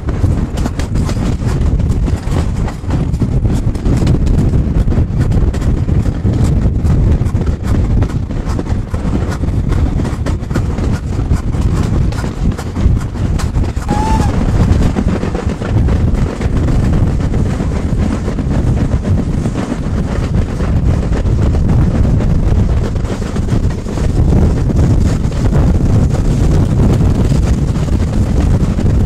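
Train running on the rails: a loud, continuous rumble and clatter with wind buffeting the microphone.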